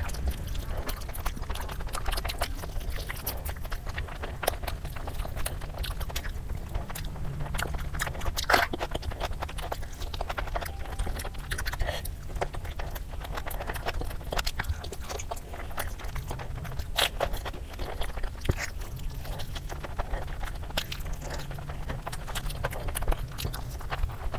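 Close-miked chewing and biting of roast chicken and spicy instant noodles: many short sharp mouth clicks and smacks, over a low steady hum.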